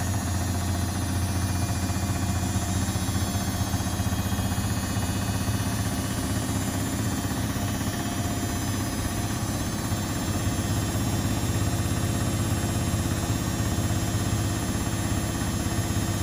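Household washing machines and tumble dryers running: a steady machine hum with a strong low drone.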